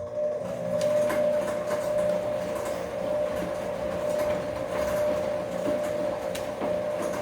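Bosch washing machine's motor starting suddenly and running with a steady whine as the drum turns, with scattered light knocks over the running sound.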